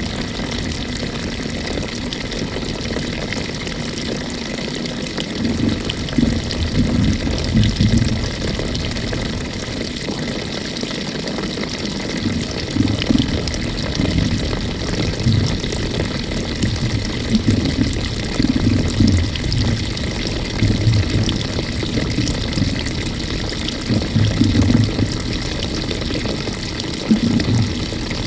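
Water running into the tub of a 2018 GE GTW220ACKWW top-load washing machine as it fills, heard from inside the drum: a steady rush of water, with low sloshing thumps every few seconds.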